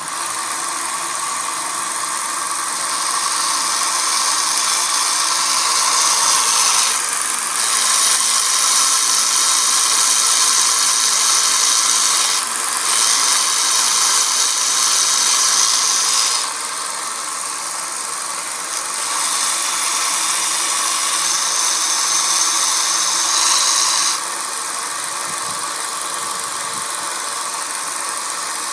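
Harbor Freight belt sander running with a 40-grit belt while a steel knife blade is ground against it to reshape a broken tip. It is a steady hissing grind over the motor's tone, louder in several passes of a few seconds each and easing off between them.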